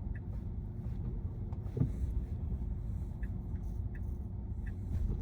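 Steady low rumble of road and tyre noise inside the cabin of a Tesla Model Y electric car as it drives, with a few faint small ticks.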